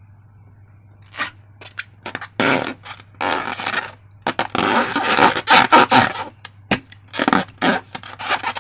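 Slime being squished and worked by hand. A quick, irregular run of squishing noises begins about a second in and is loudest around the middle.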